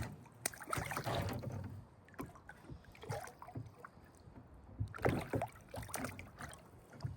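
Water splashing and sloshing around a kayak in two irregular spells, the second about four seconds after the first, with small knocks against the hull.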